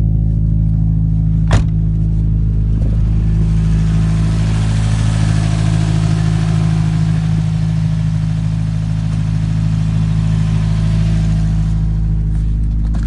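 Subaru Legacy's boxer engine idling steadily. There is one sharp click about a second and a half in, and an even hiss over the engine from about three and a half seconds until near the end.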